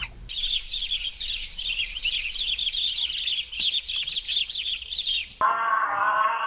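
Many small birds chirping at once in a dense, overlapping chorus of short high notes. About five seconds in it cuts off and a long, wavering animal cry takes over.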